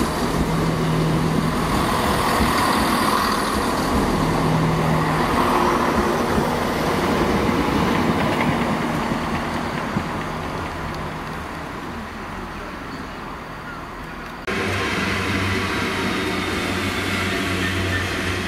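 Passenger trains moving along the platform, a rumble of running and wheel noise that slowly fades. After an abrupt cut about fourteen seconds in, a Class 66 diesel freight locomotive passes close by, its two-stroke V12 engine running with a steady low drone.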